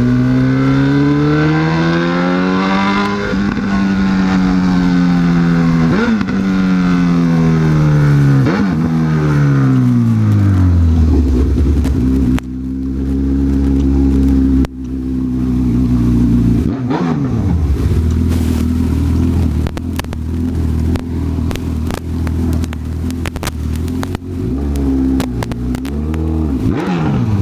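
Honda CB1000R's inline-four engine: its pitch climbs for about three seconds, then falls smoothly as the bike slows, and after about twelve seconds it settles into a low, steady idle with a few short throttle blips near the end.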